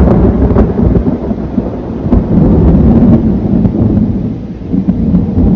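Rolling thunder: one long low rumble that swells and ebbs for several seconds.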